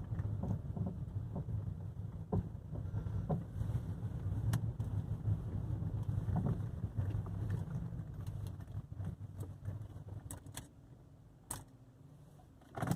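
Low road rumble inside a 2012 Kia's cabin while driving, with scattered sharp clunks and rattles over bumps, which the owner suspects come from the right front. The rumble fades out about ten seconds in, and a loud knock comes at the very end.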